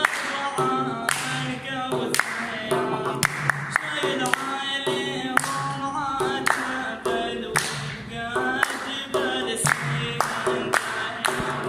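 A male voice singing an Arabic mawwaliya in long, held, ornamented lines over frequent sharp percussive hits, likely hand claps.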